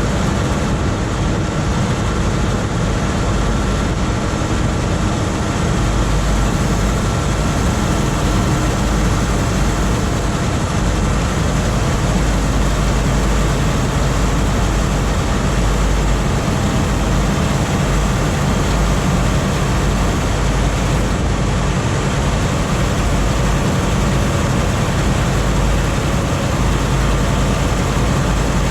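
Scania R520's 16-litre V8 diesel running steadily and evenly, in a truck loaded to about 51.5 tonnes gross.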